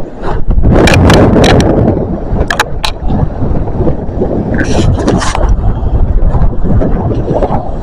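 Wind buffeting the microphone, with rustling and sharp clicking handling noises as a drink is taken out.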